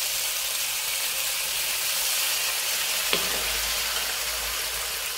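Pork belly and fried tofu sizzling steadily in a wok in a sauce of caramelised coconut sugar and fish sauce. There is one short click about three seconds in.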